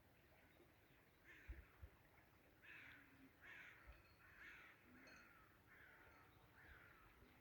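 Faint bird calls: a run of about seven short calls, each dipping in pitch, repeating less than a second apart, with two soft low thumps near the start of the run.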